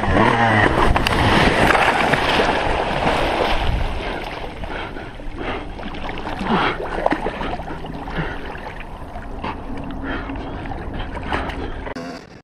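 Dirt bike engine running through deep water with heavy splashing, loudest in the first few seconds, then easing to a lower, rougher engine note.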